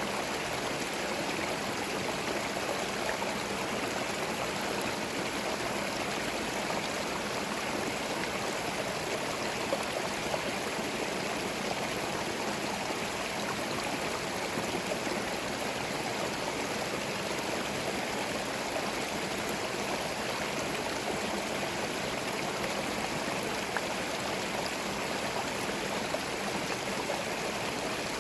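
Small forest stream flowing and gurgling over stones: a steady, even rush of running water with fine trickling detail.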